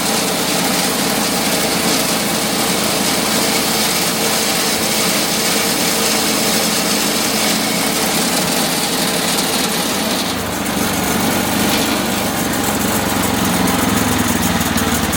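Woodland Mills HM130 Max portable sawmill's gas engine running as its band blade cuts through a log. About ten seconds in, the sound shifts lower. The owners take the poor cut for the sign of a dull blade.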